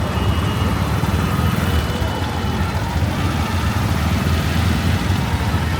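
Busy street ambience: steady road traffic, with a crowd's voices mixed in.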